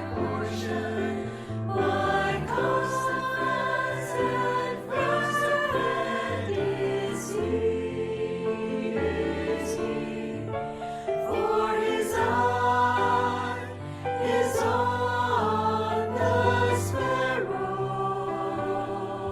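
Choir singing, with held notes over a steady low bass line.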